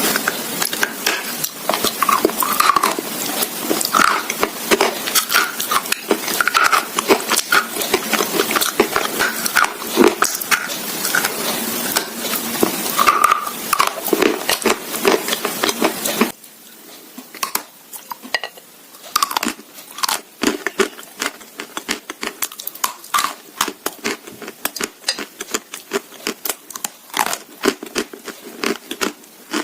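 Close-miked ASMR eating: dense, irregular crunching and chewing, mixed with cutlery clinking against a dish. About two-thirds of the way through the background hiss drops suddenly and the crunches and clinks go on more sparsely.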